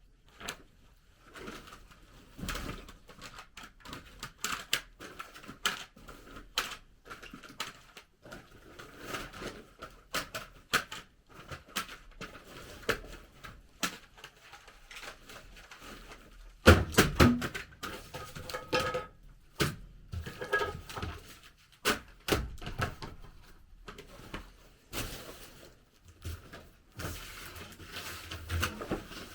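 Irregular taps, clicks and knocks of hands-on work, like tools and materials being handled. A louder cluster of clattering knocks comes about two-thirds of the way through.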